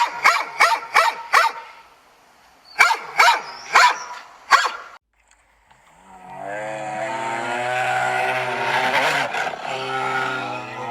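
Dog barking in two quick runs of short barks, about four a second. A single long, low, drawn-out call follows, lasting about five seconds.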